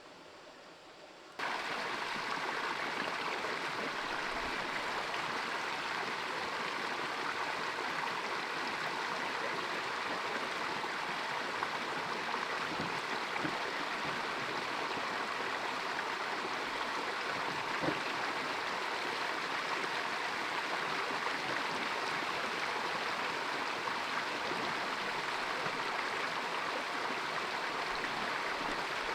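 Running water flowing steadily, an even rushing like a stream. It starts abruptly about a second and a half in and holds level throughout.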